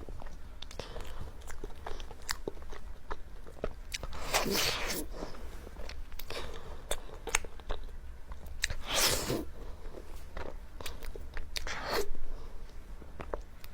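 Close-miked chewing of soft cake, with many small wet mouth clicks and a few louder swells at about a third, two thirds and near the end.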